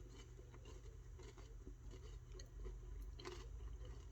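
Faint chewing of a crunchy mint and dark chocolate crisped-rice snack bar, with soft irregular crunches.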